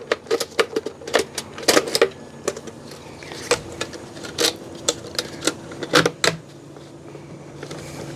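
Irregular, rapid clicks and knocks of hard plastic fuel-pump assembly parts and a fuel line being worked back into place by hand. They die away about six and a half seconds in, leaving a faint steady hum.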